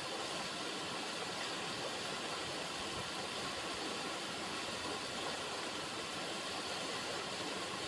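River water running: a steady, even rushing with no breaks.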